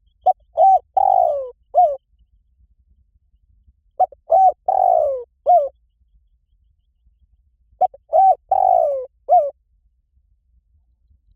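Spotted dove cooing its song three times, a phrase about every four seconds. Each phrase is a couple of short coos, a longer falling coo and a short closing coo.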